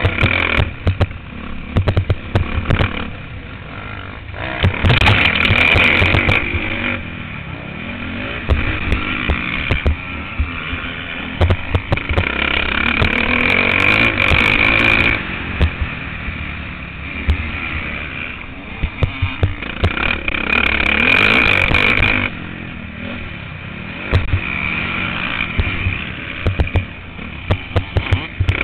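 Motocross bike engine heard through an on-board camera, revving hard and dropping off again and again as the throttle is opened and shut, with the loudest runs about five seconds in, midway and about twenty seconds in. Many short sharp knocks and wind buffeting come through on the microphone.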